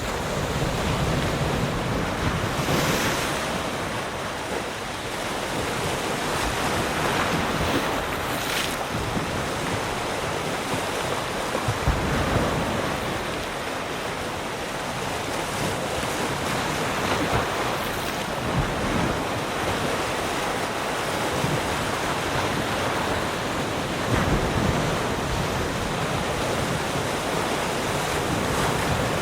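Ocean waves breaking and washing on a shore, a steady rushing surf that swells and eases, with brief brighter hissing washes every few seconds.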